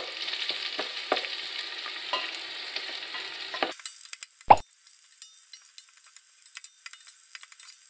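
Onions, bell pepper and garlic sizzling as they sauté in a stainless steel pot, with a spatula stirring and scraping against the metal. A little past halfway the sizzle turns abruptly quieter and thinner, and shortly after a sharp knock of the spatula on the pot stands out.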